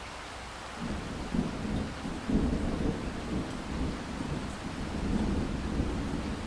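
Steady rain hiss, joined about a second in by a low, rolling rumble of thunder that swells and ebbs and carries on to the end.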